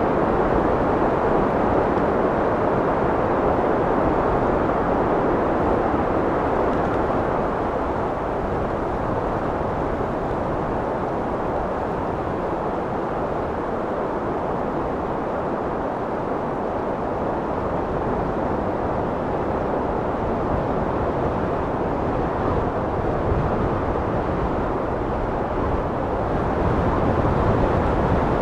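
Wind blowing steadily, a rushing noise that eases a little in the middle and swells again near the end.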